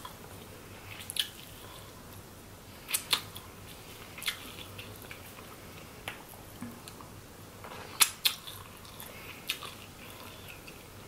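Crab claw shell cracking and snapping as it is broken open by hand, with eating sounds: about seven short, sharp cracks at irregular intervals, two close pairs among them, with quiet stretches between.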